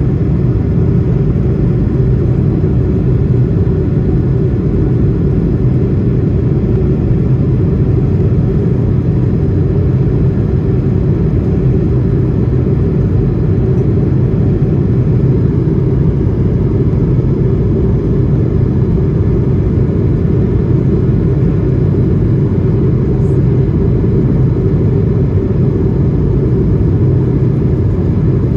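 Steady low rumble inside the cabin of an Airbus A220-300 airliner: the Pratt & Whitney PW1500G turbofan engines and airflow, heard from a passenger seat, holding an even level.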